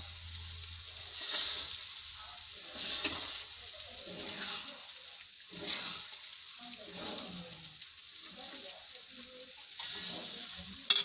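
Metal spatula stirring and scraping coarse-ground moong dal paste through hot ghee in a pan, the paste sizzling, with the sizzle swelling on each stroke about every second and a half. A sharp click near the end.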